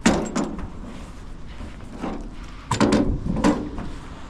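A few sharp knocks and clunks of hard objects: one right at the start, another shortly after, and a quick cluster about three seconds in.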